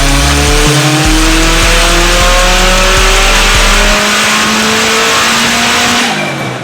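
Tuned Subaru WRX STI's turbocharged flat-four accelerating hard in one long pull, its pitch climbing steadily, then easing off about six seconds in as the level drops.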